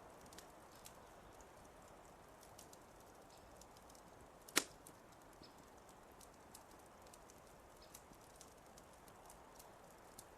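Quiet fireplace fire crackling: a soft hiss with scattered small crackles and one sharp pop about four and a half seconds in.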